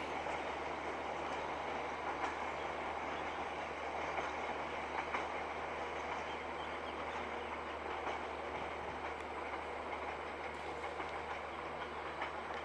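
A metre-gauge passenger train of PT INKA coaches rolling away over the rails, its wheels clacking now and then over joints and points. The sound fades slowly as the train recedes.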